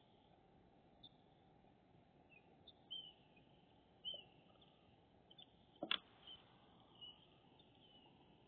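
Faint, short bird chirps every second or so, some with a small pitch glide. There is one sharp click about six seconds in.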